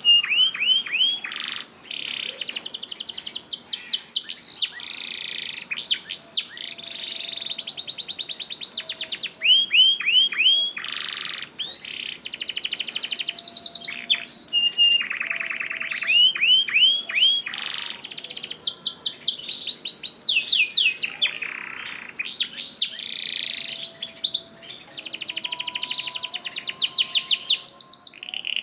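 Canary singing a long, continuous song of rapid high trills and fast repeated sweeping notes, one phrase after another with only short breaks between them.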